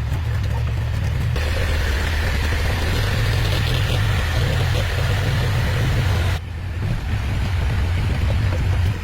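Mini excavator's engine running steadily with a deep, even rumble. The hiss over it changes abruptly about a second in and again after six seconds.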